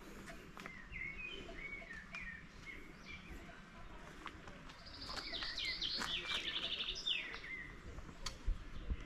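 Songbirds singing: a warbling phrase of short chirps in the first few seconds, then a louder, faster run of high chirps in the middle.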